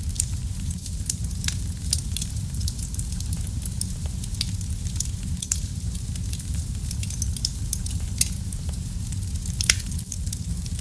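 Wood fire burning in a fireplace: a steady low rumble of flames with frequent sharp crackles and pops, two louder pops near the end.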